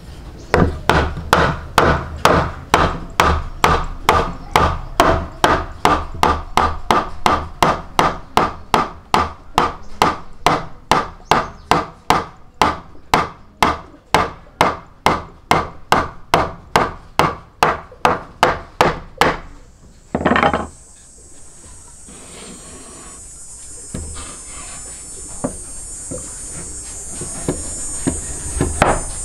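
A long run of even, sharp knocks, a little under three a second, like blows struck on wood. They stop after about twenty seconds, and a fainter high hiss or buzz carries on.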